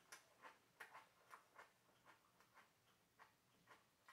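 Faint chewing of a mouthful of Cheerios cereal with milk: soft, irregular crunching clicks that thin out after about a second and a half.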